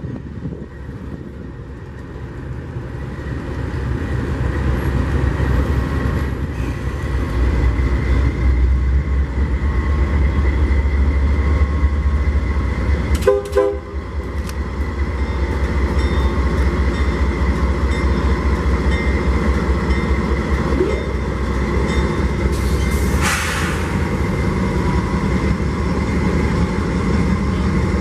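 Train rolling by with its diesel locomotive engines making a deep, steady rumble that builds over the first few seconds. A short sharp sound comes about halfway through, and a brief hiss follows a few seconds later.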